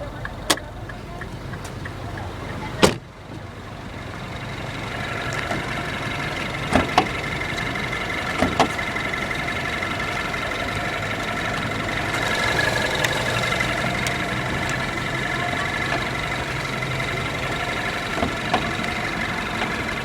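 A single sharp thump about three seconds in, then the 2010 Mini Cooper S's 1.6-litre dual-overhead-cam 16-valve inline four idling steadily, with a few light clicks.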